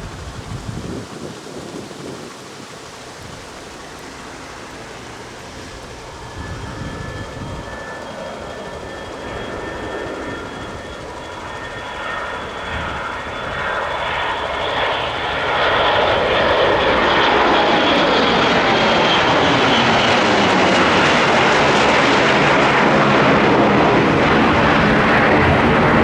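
Airplane engines growing steadily louder as the aircraft comes close, with a high whine over the engine noise, then loud and steady for the last ten seconds.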